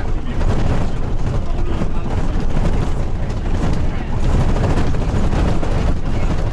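Loud, steady low rumble of a tour vehicle driving, heard from inside the cabin.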